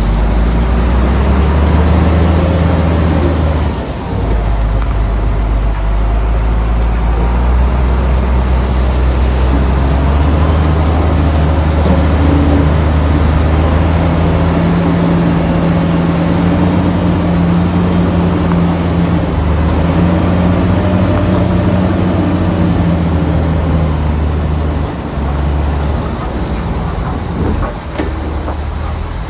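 Heavy diesel engine of earthmoving machinery running steadily and loudly, its low drone shifting slightly in pitch now and then.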